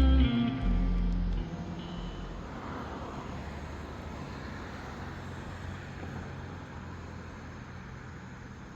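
Background lofi music ends in the first second and a half, leaving a steady haze of road traffic noise that slowly fades.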